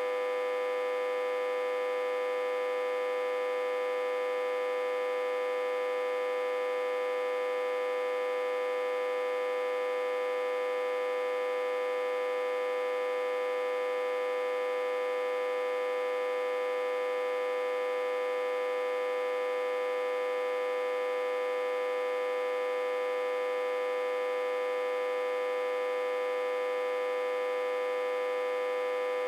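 Autotransformer humming steadily, back-fed through a step-down transformer at about 60–80 V input. The hum holds one strong, unchanging note with many higher overtones above it.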